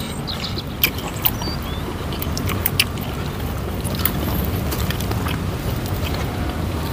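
Eating sounds: scattered crisp clicks from chewing and handling raw leafy greens, over a steady low rumble.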